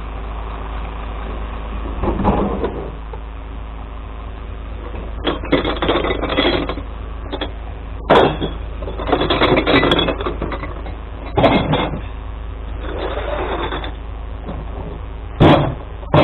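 Glass-collection truck's engine running steadily, with repeated bursts of clattering and crashing, about eight of them, some sharp and some lasting a second or more, as glass is tipped into the truck.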